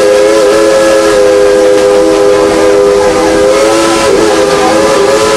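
Tweetsie Railroad steam locomotive's chime whistle blowing one long, loud chord of several steady tones, wavering briefly about four seconds in.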